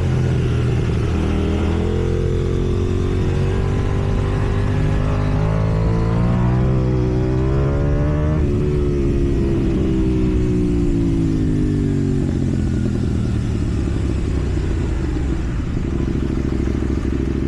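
KTM Duke 790 parallel-twin engine through a slip-on exhaust. It rises steadily in pitch for a few seconds, falls back for several more, and settles to a steady low running tone near the end.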